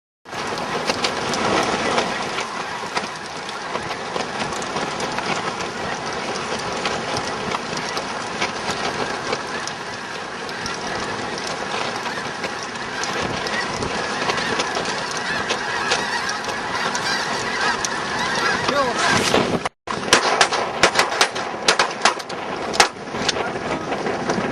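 A large flock of snow geese calling, a dense, continuous chorus of overlapping honks. Near the end a few sharp knocks cut through it.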